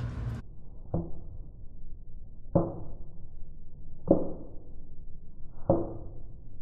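Four dull blows about a second and a half apart, each with a short ring, as a part is knocked into place on the fuel tank work.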